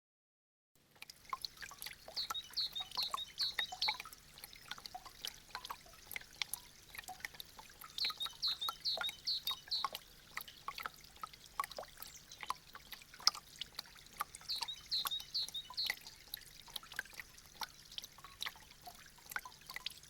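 Meltwater dripping from icicles: a dense, irregular patter of water drops, with clusters of ringing plinks that come and go. It starts about a second in, after a brief silence.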